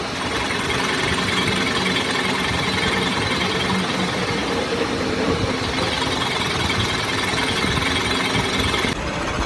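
Rapid, continuous mechanical clatter of workshop machinery or a power tool, with a sudden change in the sound near the end.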